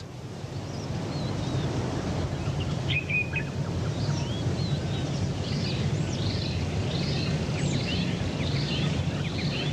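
Outdoor savanna ambience: a steady low rumble with birds chirping, the chirps starting about three seconds in and repeating in a quick series through the rest.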